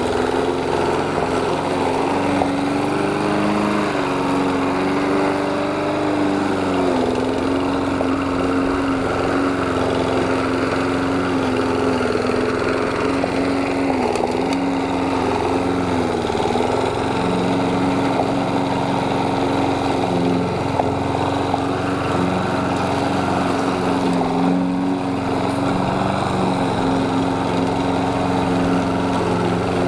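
Lawn mower engine running steadily while cutting grass. Its speed dips briefly a few times.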